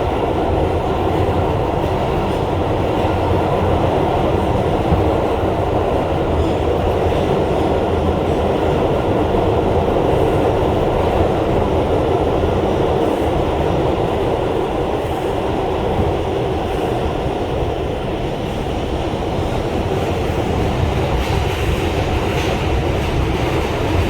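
Steady, loud running noise inside an R142 subway car at speed: motors, wheels and rails rumbling continuously.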